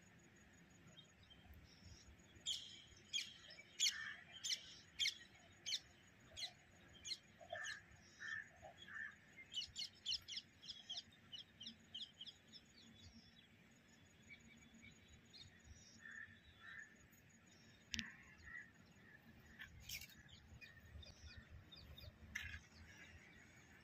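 Birds chirping: a quick run of short, sharp, high calls, about two or three a second, for roughly ten seconds, then only a few scattered calls, over a faint low background noise.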